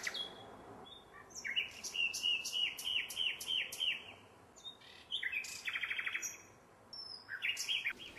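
Birdsong: a run of about eight evenly spaced high chirps, then two short, rapid trills.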